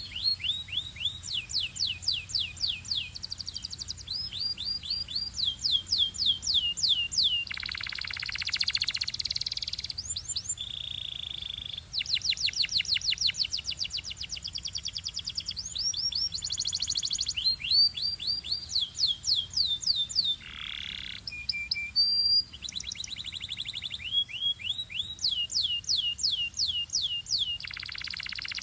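Belgian canary singing a long song of fast high trills, each a rapid run of repeated downward-sweeping notes, switching to a new trill every second or two, with a few buzzier rolls.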